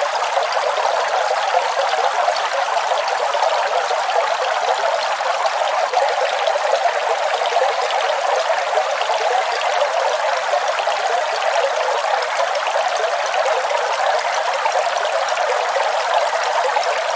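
Waterfall: a steady hiss of falling water, thin and bright, with no low rumble.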